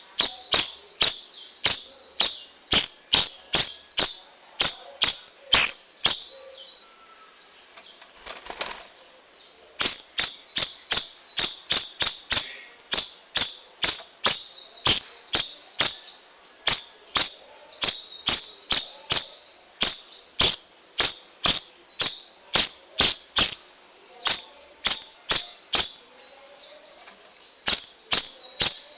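Cucak rawis bulbul singing a long continuous run of sharp, high, rattling chirps, about two a second, with a pause of a few seconds in the first half.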